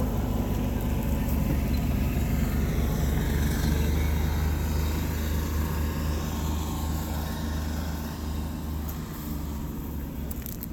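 A car engine running close by, a low steady rumble that grows loudest about four seconds in and then fades away over the last few seconds, as from a car driving past.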